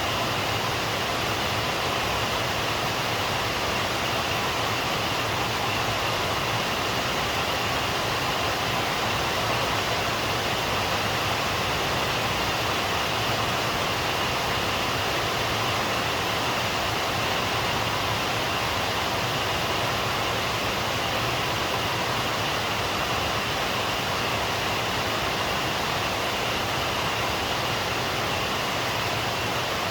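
Steady rain falling at night, an even, unbroken hiss with no thunder claps or separate drops standing out.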